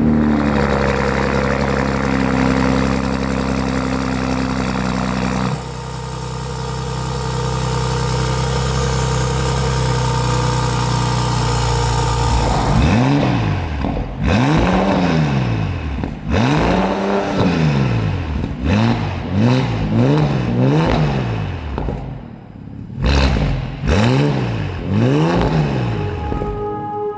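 Bentley Bentayga's twin-turbo W12 engine running steadily, then revved about a dozen times in quick succession in the second half, its pitch rising and falling with each blip of the throttle.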